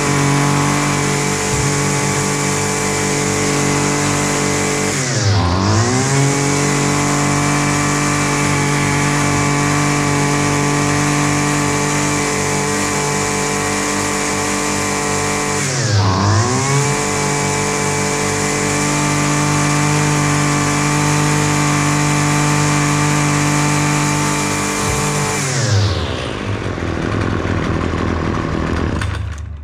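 Husqvarna 128LD string trimmer's two-stroke engine held at high revs, dropping briefly toward idle and revving straight back up twice, then winding down near the end. It revs freely now, running good after the clogged spark arrestor was dealt with, though still burning out the mess left by a bad fuel mixture.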